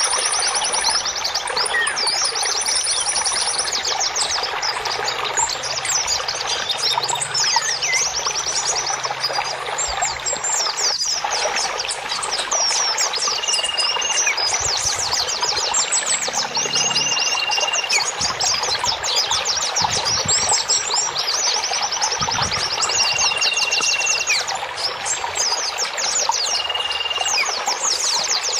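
Many small songbirds chirping and twittering rapidly over steady running water. From about halfway through, a short, even, high whistle repeats every few seconds.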